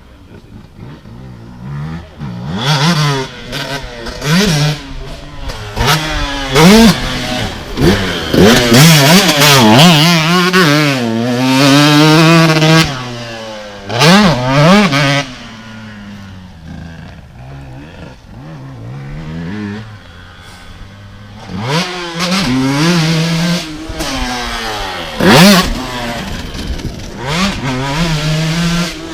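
KTM SX 125 two-stroke single-cylinder motocross engine being ridden hard, its revs climbing and dropping again and again with throttle and gear changes. It is quieter at the start and for a few seconds in the middle.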